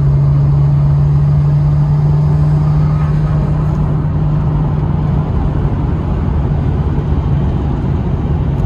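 Car engine and road noise heard from inside a Nissan Skyline R34's cabin at a steady cruise: a constant low drone.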